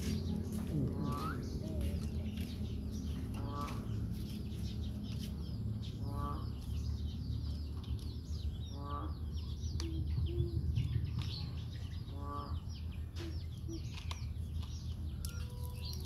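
Birds calling: a short clucking call repeats every two to three seconds over a dense scatter of high, quick chirps from small birds, with a steady low hum underneath.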